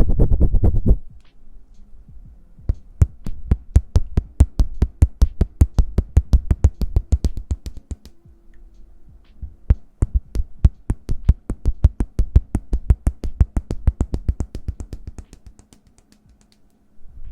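ASMR hand sounds close to the microphone: a fast, even run of sharp taps, several a second, after a louder dense patch in the first second, thinning out near the end.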